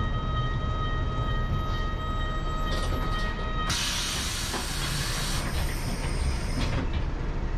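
Rail vehicle at a station: a low engine rumble under a steady high whine, then about three and a half seconds in the whine stops and a loud hiss of compressed air starts, lasting about three seconds.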